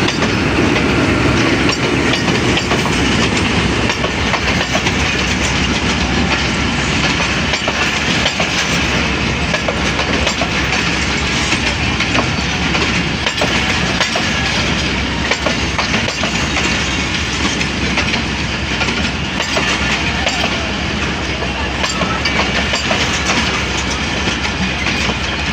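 A train rolling past, its wheels clattering over the rail joints in a steady rumble with many small clicks throughout.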